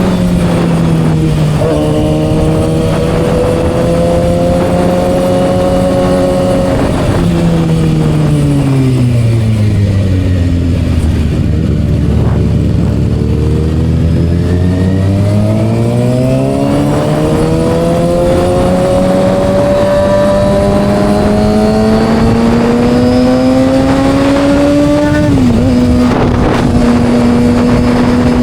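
Kawasaki ZX6R's inline-four engine through an M4 aftermarket exhaust, its pitch falling as the bike slows to near idle around the middle, then climbing steadily as it accelerates. Near the end the pitch drops suddenly at a gear change and then holds steady.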